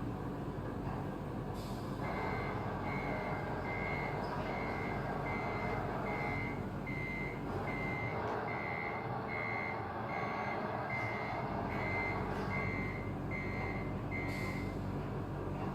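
Radio-controlled Scania tipper truck's reversing beeper: a steady series of single-tone beeps, a little over one a second, starting about two seconds in and stopping shortly before the end, over a continuous running noise.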